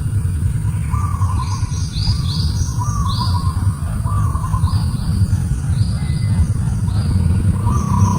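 Birds chirping: short chirps repeated about every half second, some high and falling, others lower. A steady low rumble runs underneath.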